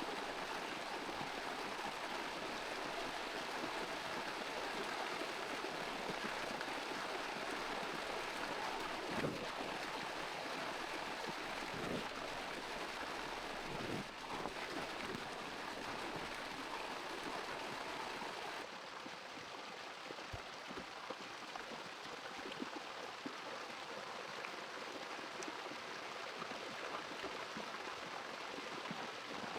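Steady rush of running water, with a few short knocks about nine, twelve and fourteen seconds in. The sound thins and grows duller about two-thirds of the way through.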